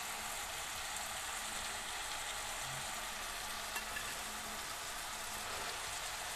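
Steppe oyster mushrooms (Pleurotus eryngii) frying in vegetable oil and butter in a frying pan: a steady sizzle.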